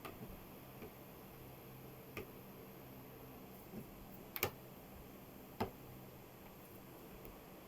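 A few faint, sharp clicks or taps over a low steady hum, the loudest a quick double click about four and a half seconds in.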